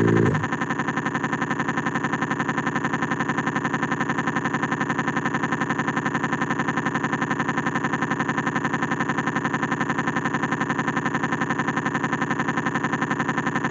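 A steady, buzzing electronic tone with a rapid even flutter, held without change after taking over about half a second in.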